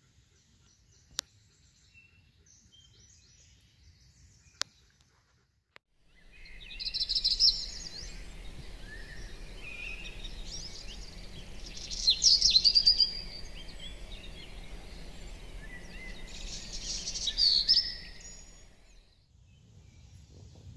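Woodland birds singing over a steady low background rush, with three louder phrases of song a few seconds apart. The song comes in about six seconds in, after near quiet broken by two faint clicks, and fades about a second before the end.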